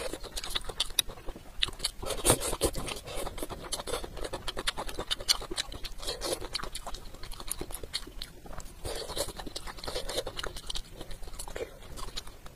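Close-miked chewing of a mouthful of food: wet mouth sounds and many small irregular clicks and smacks.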